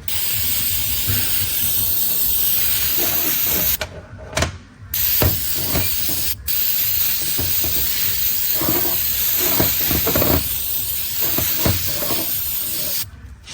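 Compressed-air blow gun hissing in long blasts as a transmission part is blown clean, with short breaks about four seconds in and again a little after six seconds, then cutting off near the end.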